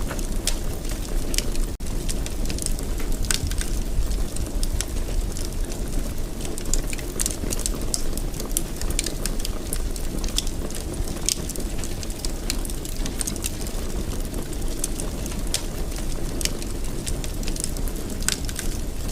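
Wood fire in a fireplace crackling, with frequent sharp pops over a steady low rumble. The sound cuts out for an instant about two seconds in.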